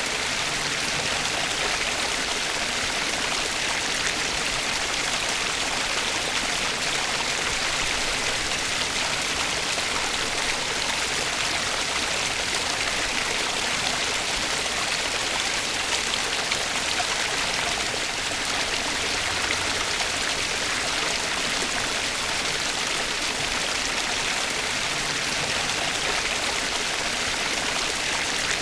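Flowing stream water, a steady, even running-water sound with no breaks or changes.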